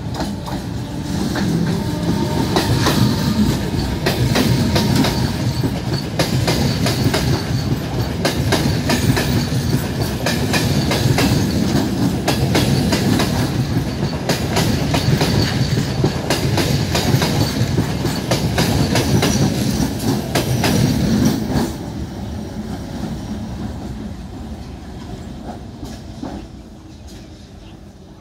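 Suburban electric local train running past along the platform, its wheels clattering over rail joints in a fast, uneven rhythm over a steady rumble. The sound drops off sharply about 21 seconds in and then fades as the last coaches move away.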